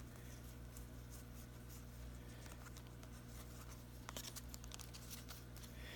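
Faint rustling and light clicks of Topps baseball trading cards being slid and flipped through by hand, over a steady low hum.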